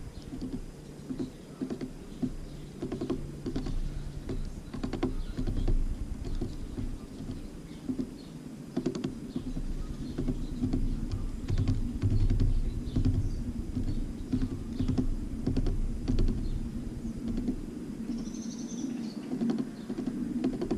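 Irregular tapping and clicking of small birds pecking at seed on a feeder, with one short high bird call near the end.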